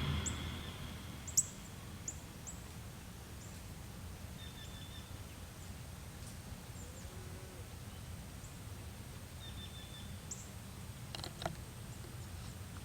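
Birds making scattered short, high chirps over a steady low rumble of outdoor ambience, with a couple of faint clicks near the end.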